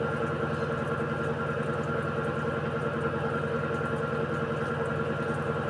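Electrolux Essential Care 14 kg washing machine (model LED14) in its spin cycle: a steady motor hum and whine held on a few fixed pitches.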